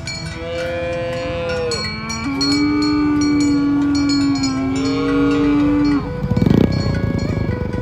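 Cow mooing: long, drawn-out calls lasting about five seconds, followed near the end by a short, loud rumbling burst, over faint background music.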